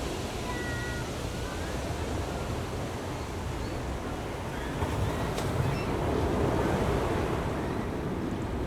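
Ocean surf breaking and washing on the shore: a steady rush of waves that swells louder from about five seconds in, then eases near the end. A few faint short high chirps sound about half a second in.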